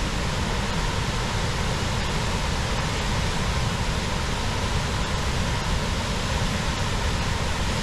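Athabasca Falls' glacial meltwater pouring through a rock gorge: a steady, unbroken roar of rushing water, heavy in the low end.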